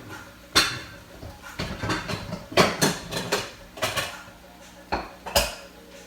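Utensils clinking and clattering against dishes and pans in an irregular run of sharp knocks and scrapes, with the loudest strikes a little over half a second in and about two and a half seconds in.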